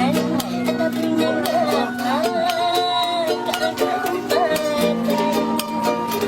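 A woman singing a wavering melody with vibrato, holding one long note about two to three seconds in, over a steadily strummed string accompaniment.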